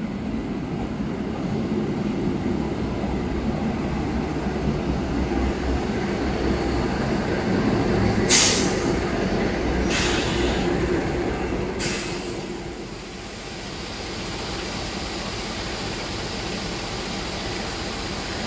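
Passenger train rolling through the station: a steady rumble of wheels on rail, with three short sharp hisses a couple of seconds apart past the middle, after which the rumble eases to a quieter steady noise.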